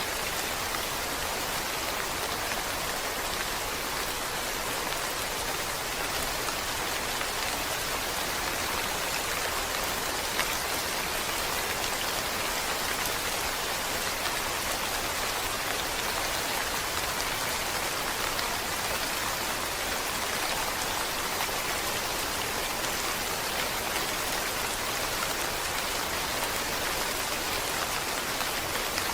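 Steady rain falling and pattering on a surface, a continuous even hiss of many drops, with a single louder drop-like tick about ten seconds in.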